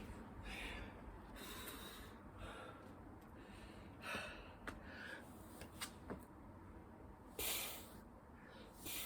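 A man breathing hard from exertion during a burpee and chin-up workout: forceful exhales and gasps every second or two, the loudest about seven and a half seconds in, with a few light clicks or knocks between them.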